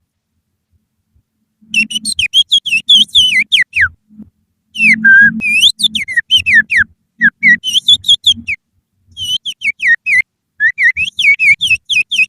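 Finger whistling that imitates the song of an oriental magpie-robin (kacer). It comes as phrases of quick, sliding, chirping whistles separated by short pauses, and begins after a brief silence.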